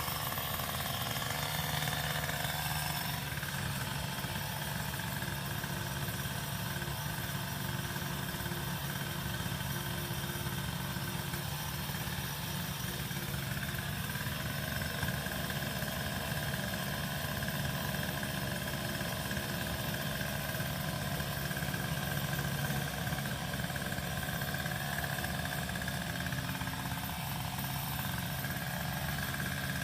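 A small engine running steadily at idle, with no change in speed.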